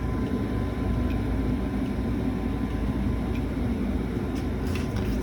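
High-efficiency gas furnace running steadily at full fire, its blower and burner making an even low rumble.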